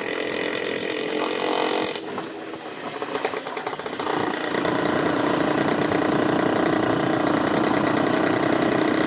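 Small petrol engine running steadily. Its sound dips and turns uneven about two seconds in, then settles back to a steady, slightly louder run about four seconds in.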